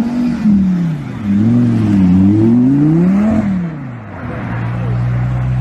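Car engine revving, its pitch rising and falling about three times, then settling to a steady note about four seconds in.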